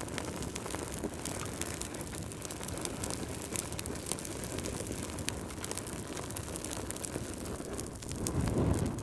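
Wood fire crackling in a fireplace: a steady low rumble of flames with many small pops and snaps, swelling into a louder low whoosh near the end.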